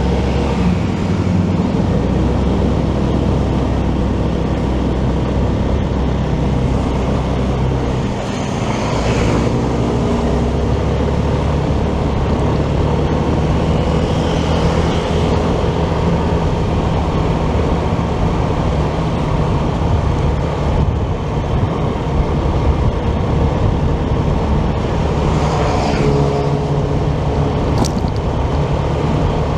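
Motorcycle running under way with steady engine, road and wind noise, and other vehicles passing a few times.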